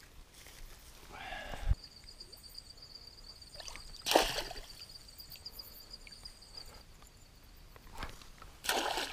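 Creek water splashing twice, about four seconds in and near the end, with a short knock before two seconds in. A steady high-pitched whine runs through the middle.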